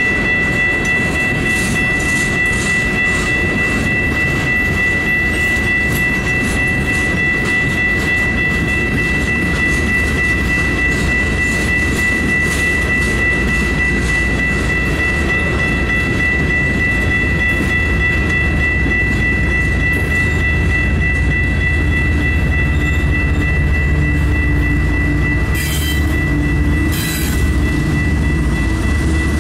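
Union Pacific rock train rolling past: a steady loud rumble of freight cars on the rails with clickety-clack from the wheels, and a steady high-pitched whine throughout.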